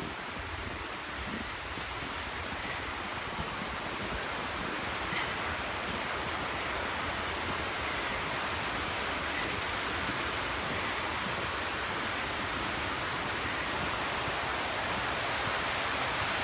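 Lake Superior waves washing onto the beach in a steady rush that grows a little louder toward the end, with wind buffeting the microphone.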